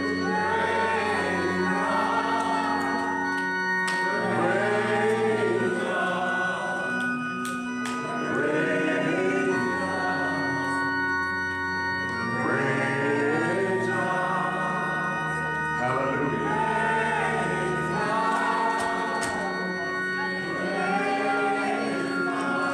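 Church music: a voice singing over held organ chords that change every few seconds.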